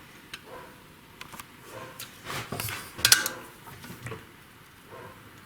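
Metal tools and parts clinking and tapping on a car engine's cylinder head: scattered light clicks, with a louder cluster of knocks about three seconds in.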